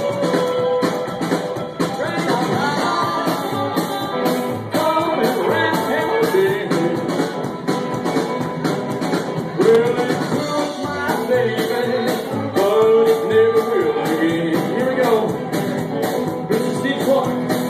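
Live rockabilly band playing with electric guitars, stand-up bass and drums to a steady driving beat, with a singer.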